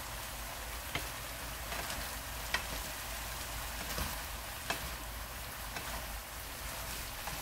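Sweet potato stems stir-fried in a frying pan: a steady sizzle, with a few sharp clicks of the spatula against the pan as they are stirred.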